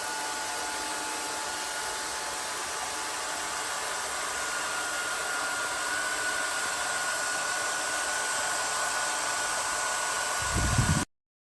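A small motor-driven machine running steadily with a hissing whine, a few low knocks near the end, then a sudden cut-off.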